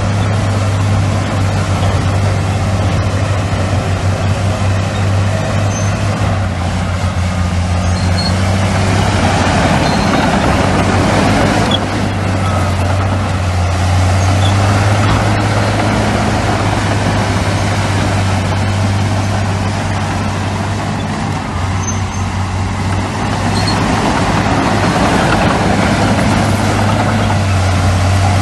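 Diesel engines of heavy earthmoving machinery running steadily: a constant low drone with mechanical noise above it.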